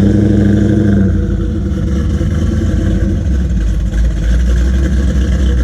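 A car's engine running loudly close by, its low, steady exhaust note pulsing rapidly.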